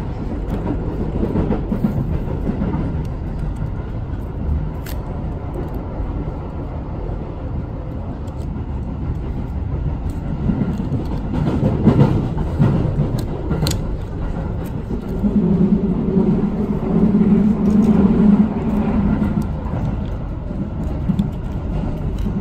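Train running along the track, heard from inside the carriage: a steady rumble of the wheels with a few sharp clicks, swelling louder about halfway through and again for a few seconds near the end.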